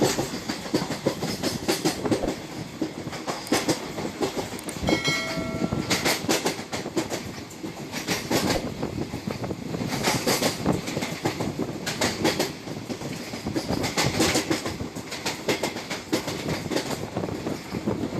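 Indian Railways sleeper-class coach running along the track, heard by an open window: steady rumble and wind with wheels clattering over rail joints in repeated bursts. A brief horn tone sounds about five seconds in.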